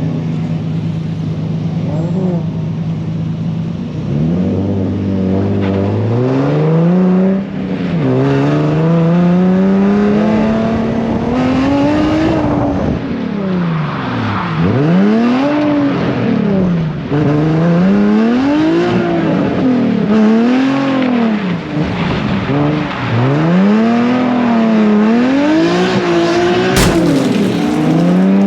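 Infiniti G37 drift car's V6 engine, idling steadily for the first few seconds, then revving up and then rising and falling in pitch over and over, every second or two, as the throttle is worked through drifts. A single sharp crack sounds near the end.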